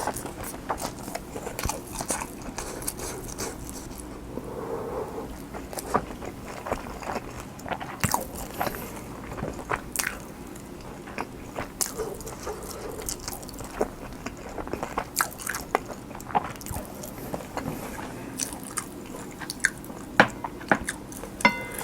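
Close-miked chewing of a mouthful of kimchi fried rice: wet smacking and sticky mouth clicks at an irregular pace.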